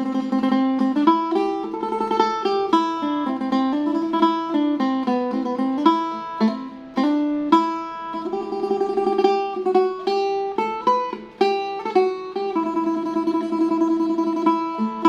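Phin, the Isan plucked lute, playing a lam phloen melody in quick picked notes, with passages of rapid tremolo picking on a held note.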